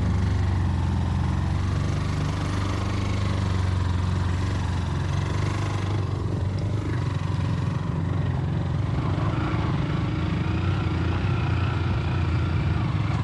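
Motorcycle engine running steadily while riding, with no pauses or sharp changes in speed.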